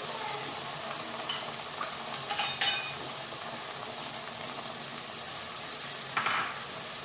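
Ground green-pea masala and boiled badi sizzling in a non-stick wok as the badi's cooking water is poured over them. A sharp clink sounds about two and a half seconds in, and there is a short louder scrape or splash near the end.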